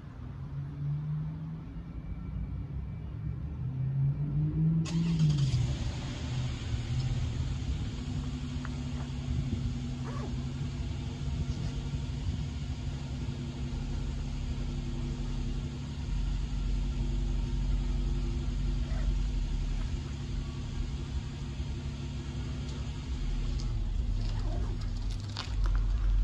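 Road traffic: a motor vehicle's engine rising and falling in pitch in the first few seconds, then a steady engine hum with a low rumble underneath.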